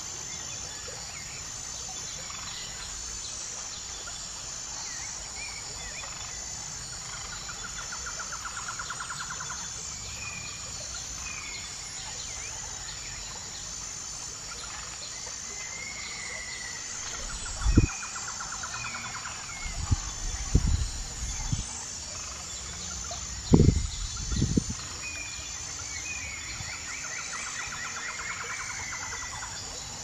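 Birds calling over a steady background hiss: short chirps scattered throughout and several rapid trills of a second or two each. In the second half, a few loud low thumps stand out above everything else.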